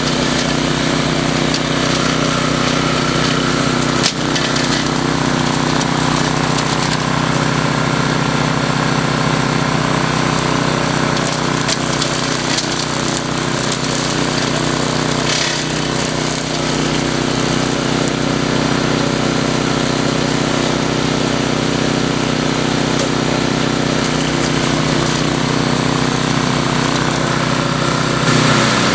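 DR walk-behind brush mower with a 10.5 hp Briggs & Stratton Industrial/Commercial engine running steadily while mowing through brush, with a sharp knock about four seconds in and another near the middle.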